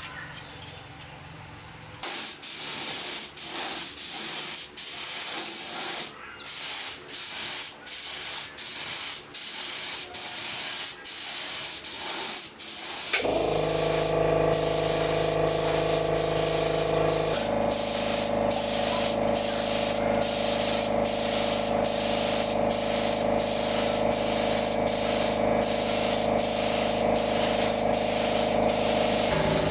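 Compressed-air spray gun hissing, with frequent short breaks as the trigger is let off, typical of spray painting. About halfway through, an air compressor starts and runs steadily under the hiss.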